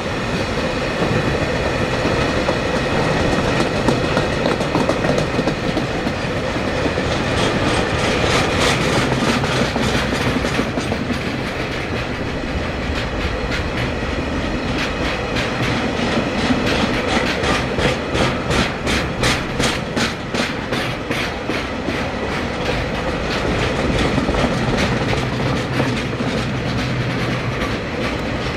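Freight train of Koki container flatcars and Taki tank wagons rolling past at speed, the wheels clicking rhythmically over the rail joints, about two beats a second, most distinct in the middle of the passage.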